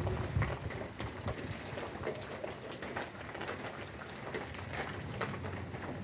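Heavy rain falling, a steady hiss dotted with many sharp drips and splashes, with a brief low rumble about half a second in.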